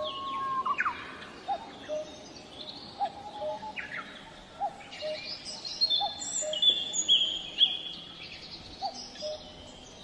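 Several birds singing in a forest: one repeats a short low note roughly once a second, while others give higher whistled phrases and chirps that grow busier and louder about halfway through.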